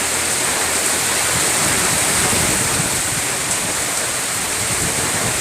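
Rain pouring down steadily from a thunderstorm: a dense, even hiss with no single drops or thunder standing out.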